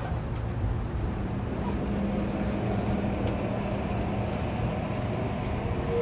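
Saitama Railway 2000 series electric train running, heard from inside the car: a steady rumble of wheels on rail. Toward the end a motor whine rises in pitch as the train picks up speed.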